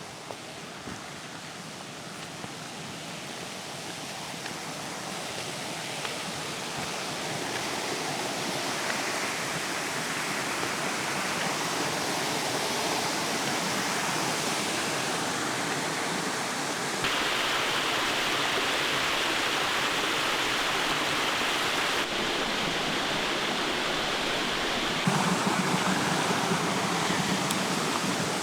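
Water of a stream running over rocks, a steady hiss that grows louder over the first half and shifts abruptly in level and tone three times in the second half.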